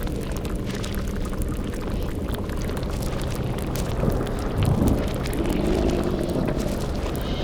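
Sound-effects ambience of a bubbling cauldron over a crackling fire, on a steady low rumble, with a short deeper swell about four and a half seconds in.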